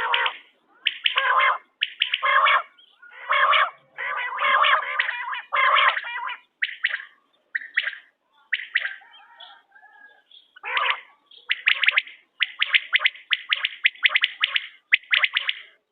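Quail calling over and over in bursts of sharp, rapid notes, some stretches denser and harsher, with short pauses between bursts. This is a quail call of the kind played to lure quail.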